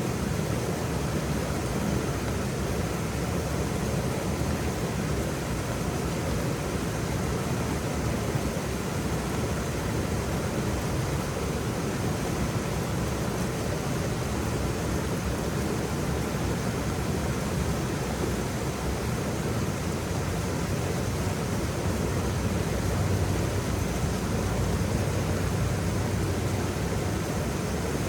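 Waterfall: water pouring and splashing in a steady, deep rush with no breaks.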